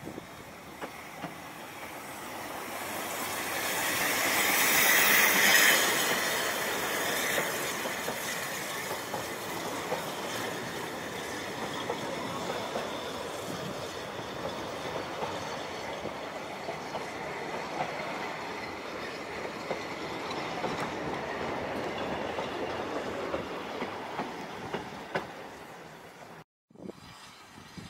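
Narrow-gauge train running past at close range. It is loudest about five seconds in as the locomotive passes with a high wheel squeal, and then the coaches roll by with wheels clicking over the rail joints. The sound fades as the last coach moves away.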